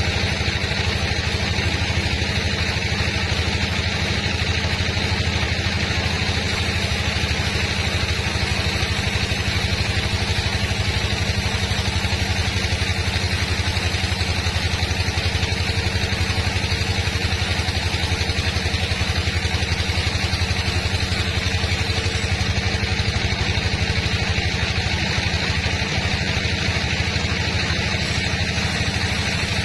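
Sawmill machinery running with a steady engine drone that holds an even pitch and level throughout.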